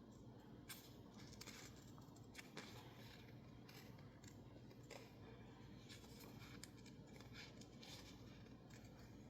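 Scissors cutting sticker label paper: a scattering of faint, short snips over a low steady hum.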